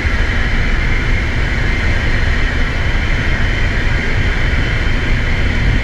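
Steady loud machinery drone from a berthed car ferry while its bow door is opened and its vehicle ramp is let down, a deep rumble with a hissing edge that does not change.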